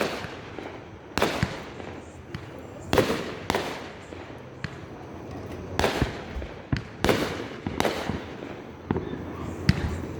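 Fireworks going off: a string of sharp bangs about a second apart, each trailing off in a fading echo.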